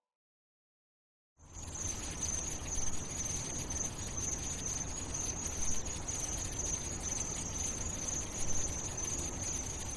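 Silence for about a second and a half, then a steady high-pitched insect chirring, like crickets, over a low rumble.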